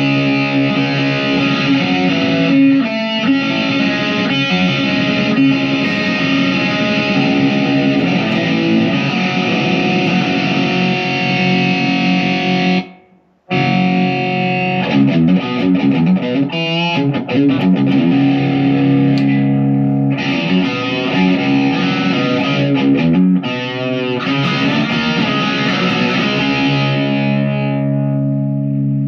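Chapman SAR63 electric guitar played through distortion, sustained chords ringing out. The playing stops dead for a moment about halfway through, then carries on.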